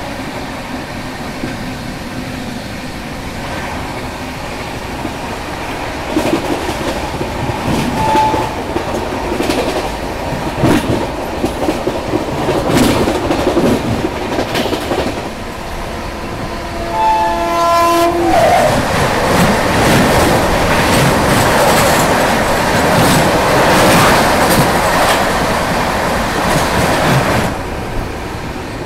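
Shatabdi Express coach running fast, about 130 km/h, heard from the open door: wheels clattering rhythmically over rail joints, with wind rushing past. About two-thirds through a train horn sounds briefly, then a louder rush lasts several seconds as another train passes on the next track.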